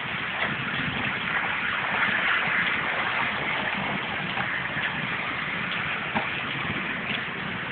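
Heavy fall of large hailstones: a dense, steady hiss with scattered sharp ticks of single stones striking.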